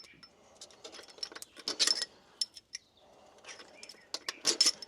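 Sharp metallic clicks and clinks of hand tools and loose bolts as valve cover fasteners are taken out, in two clusters: about two seconds in and again near the end.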